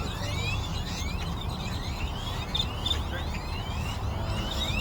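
A large flock of birds calling all at once: a dense chatter of many overlapping short rising chirps, over a steady low rumble.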